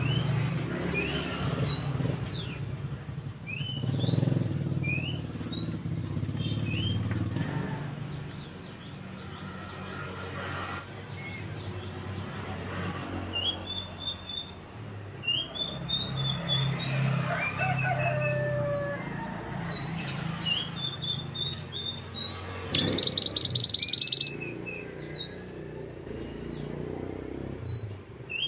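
Mantenan songbird singing: a string of short, sharply rising chirps with a few warbled phrases between them. Near the end comes a loud, very fast trill lasting about a second, over a low steady hum.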